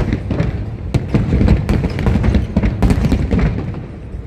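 Fireworks shells bursting in quick succession: a dense run of bangs and thuds over a continuous low rumble, with a few sharper cracks standing out about a second, a second and a half, and three seconds in.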